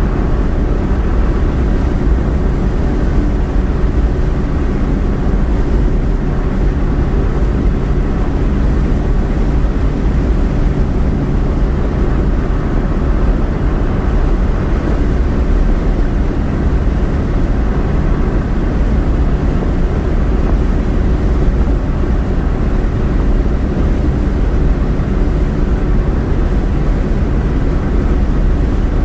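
Steady road and engine drone heard inside a moving car's cabin, unchanging throughout.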